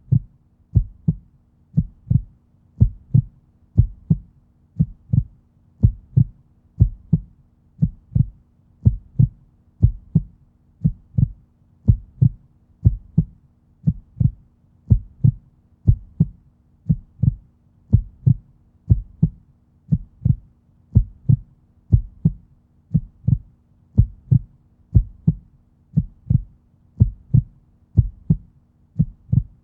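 Heartbeat: a steady lub-dub double thump, low and dull, about once a second, with a faint steady hum underneath.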